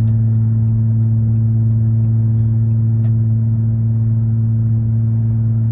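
Car engine droning at a steady, unchanging pitch while cruising, heard from inside the cabin over road noise. Faint regular ticking comes about three times a second.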